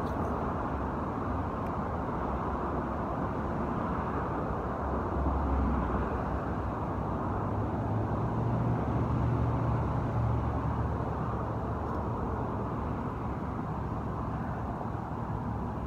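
Steady road traffic noise from a nearby highway. A low rumble swells twice, briefly about a third of the way in and then for a few seconds around the middle, as heavier vehicles pass.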